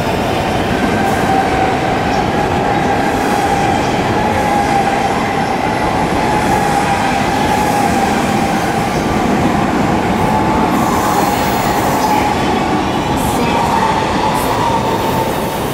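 High-speed electric trains accelerating away from station platforms: a steady rush of running noise, with a motor whine that rises slowly in pitch as they gain speed.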